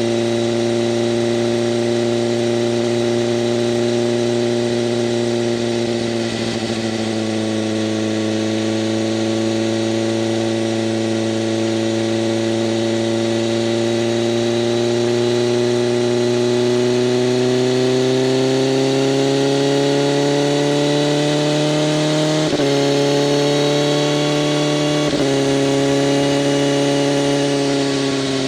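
BMW M1000RR's inline-four running through an SC-Project CRT exhaust with its flaps open, pulling at a steady throttle as the bike rides. The engine note climbs slowly for several seconds, breaks sharply twice late on, then falls away at the end.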